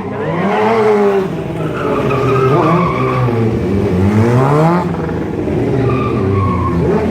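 Stunt motorcycle engine revving up and down repeatedly during a trick, with a long climbing rev about two-thirds of the way through, and tyre squeal.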